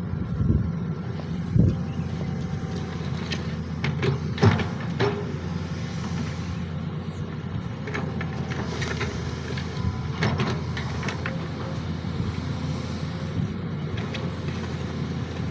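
SANY SY215C hydraulic excavator working, its diesel engine running steadily under load, with scattered clanks and knocks from the bucket and arm around two, four to five, and ten seconds in.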